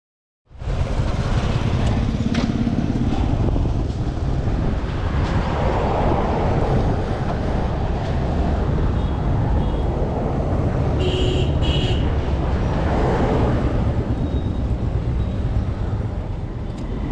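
Yamaha R15 V3's 155 cc single-cylinder engine running steadily as the motorcycle rides along, mixed with heavy road and wind rumble. It cuts in suddenly about half a second in.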